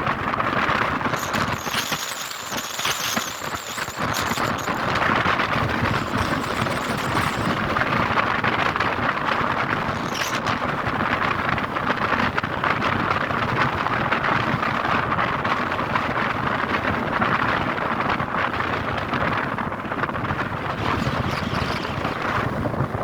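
Steady rushing road and wind noise from a car driving along a highway. A thin high squeal sounds for a few seconds near the start.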